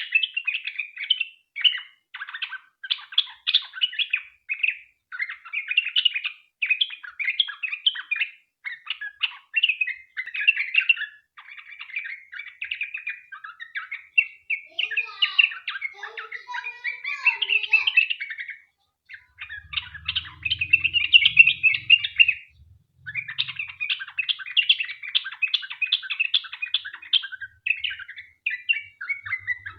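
Yellow-vented bulbul (trucukan) singing long, rapid chattering phrases, the 'ropel panjang' song used to lure other bulbuls into answering. The song breaks off briefly a few times.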